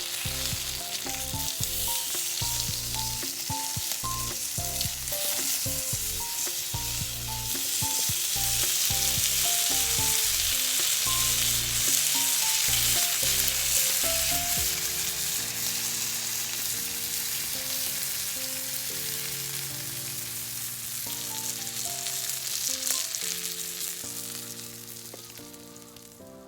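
Meat sizzling and crackling as it grills over a campfire, under background music with a melodic line and bass. The sizzle is loudest midway, and both fade out near the end.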